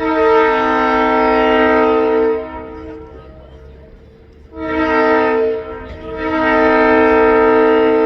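Train horn sounding three times: a long blast of about two and a half seconds, a short one, then another long one. Each blast holds several notes at once.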